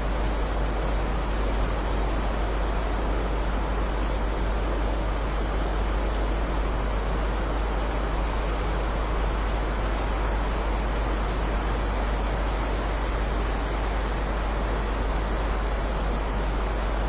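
Heavy rain falling steadily: an even, unchanging hiss with a strong low rumble beneath it.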